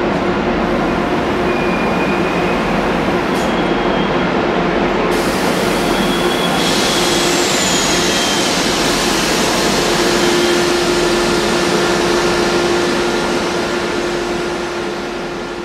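Deutsche Bahn ICE T electric multiple unit rolling slowly in alongside the platform and coming to a stop, then standing with a steady hum from the train that grows stronger about halfway through. The sound tapers off near the end.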